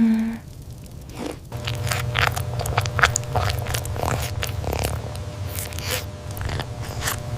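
Irregular crisp clicks and crunches over a steady low hum that starts about a second and a half in.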